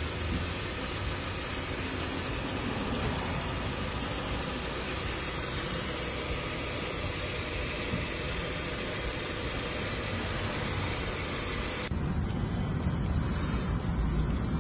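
A vehicle engine running at idle under a steady hiss. About twelve seconds in it cuts to a different engine running, deeper and a little louder.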